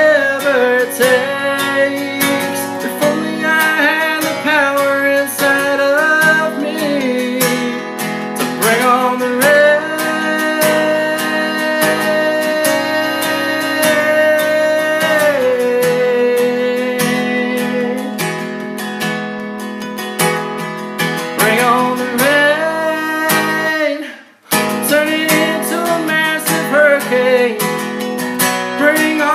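Strummed acoustic guitar under a man singing long, held notes that slide between pitches. Everything cuts out for a moment about 24 seconds in, then the guitar and voice come back.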